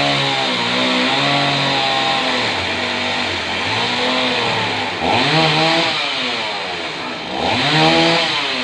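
Chainsaw cutting through a fallen sengon trunk, its engine revving up and dropping back again and again, with two strong rises, about five and seven and a half seconds in.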